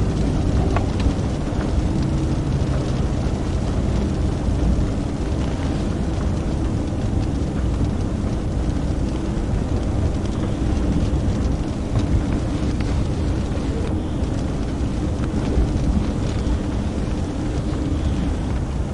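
Steady engine and road noise of a patrol car driving, a constant low rumble with no siren.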